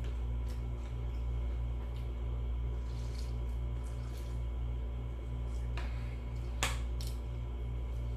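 A steady low hum with a faint regular pulse, joined about three-quarters of the way through by three short sharp clicks, the middle one the loudest.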